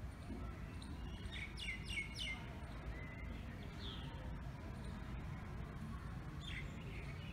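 Small birds chirping in short high notes: a quick run of three or four chirps about a second and a half in, another near four seconds and a couple more near the end, over a steady low background rumble.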